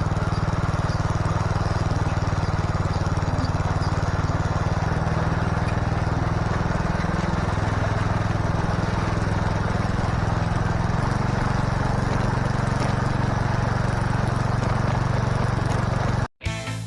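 Electric starter cranking the long-dormant engine of a White LT 946G lawn tractor, turning it over steadily without it catching. It cuts off suddenly near the end.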